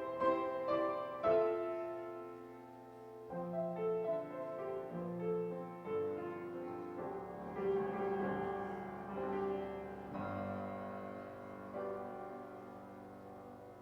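Piano playing slow hymn-like chords and melody, dying away toward the end.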